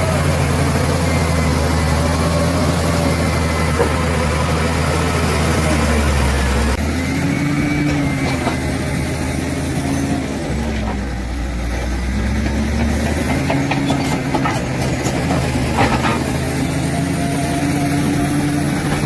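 Bulldozer's diesel engine running steadily, its pitch rising and falling every couple of seconds as it works, with an abrupt change in the sound about seven seconds in and a few faint knocks.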